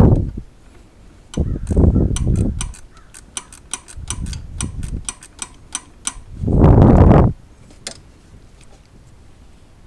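Small 1/4 inch drive ratchet clicking as it backs out a 10 mm coil pack bolt, about four clicks a second in a steady run, with a few louder low rumbles in between.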